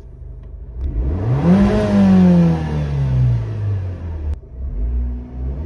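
Abarth 595's 1.4 turbocharged T-Jet four-cylinder engine blipped once from idle with the car standing still, the exhaust note rising to a peak about two seconds in and falling back to idle. A single sharp click as the revs drop. The standard 595 exhaust is relatively well silenced by Abarth standards.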